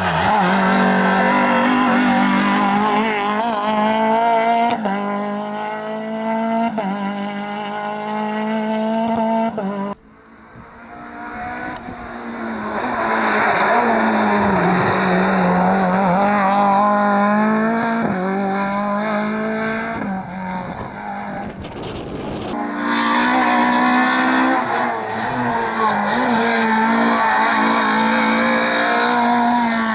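Rally cars running flat out on a tarmac hillclimb stage, engines revving up repeatedly as they accelerate through the gears, with tyre squeal. Sudden breaks about ten seconds in and again later switch to another car.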